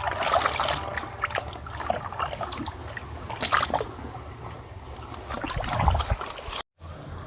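Running water splashing and trickling unevenly. Near the end it cuts off suddenly, and a steadier, fainter rushing noise follows.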